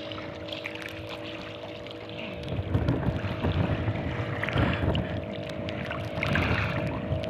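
Water sloshing and splashing against a small fishing boat in strong wind, in surges a couple of seconds apart, with a faint steady hum underneath.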